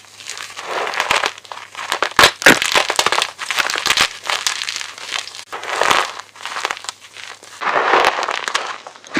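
Gym chalk being crushed and crumbled, a run of dry, gritty crunches and crackles broken by several sharp snaps.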